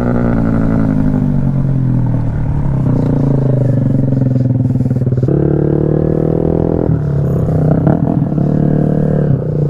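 Motorcycle engine running at low revs close by, its pitch drifting up and down with a sudden change a little past halfway.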